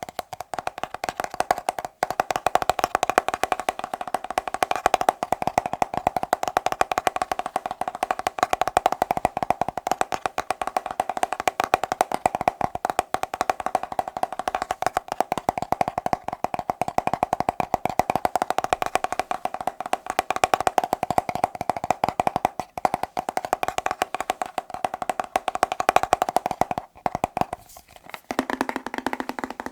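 Very fast tapping on a hard, resonant object, a dense unbroken patter with a hollow, wood-block-like ring. Near the end the tapping breaks off briefly and resumes on a different object with a lower tone.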